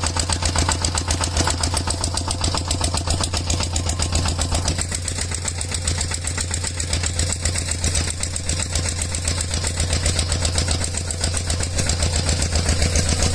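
Mini tractor's small engine running steadily with a fast, even chugging.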